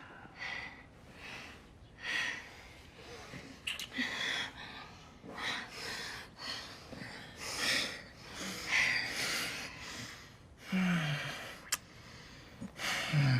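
Heavy breathing of a couple having sex: noisy breaths about once a second, with two short low moans that fall in pitch near the end.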